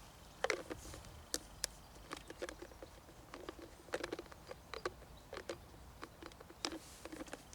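Footsteps crunching on snow: short, irregular crunches and crackles in uneven clusters, a few each second.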